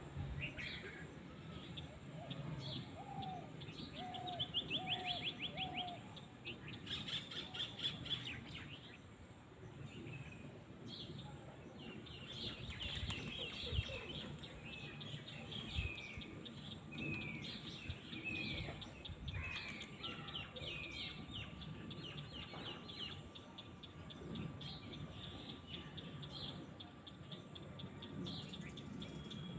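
Small birds singing and calling over a faint steady outdoor background. There are rapid high trills and a long run of repeated down-slurred whistled notes, with four short, lower notes about three to six seconds in.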